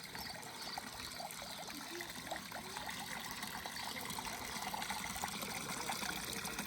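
Water trickling and splashing steadily, like a small stream or runoff.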